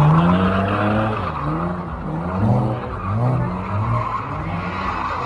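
Car engine revving, its pitch rising and falling again and again, with tyre squeal.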